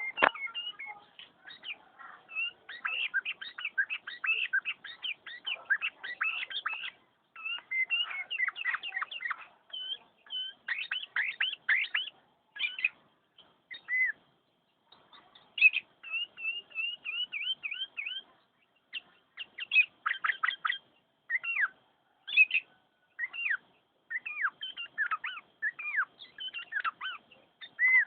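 Sooty-headed bulbul (kutilang) in full song: long runs of quick chirps and short whistled notes, broken by brief pauses.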